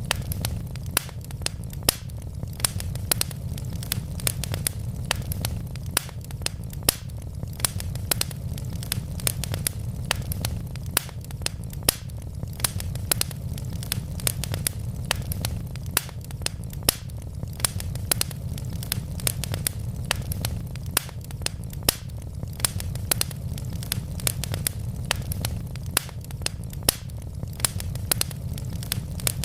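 Wood fire burning in a fireplace: a steady low rumble of flames with many sharp, irregular crackles and pops from the logs.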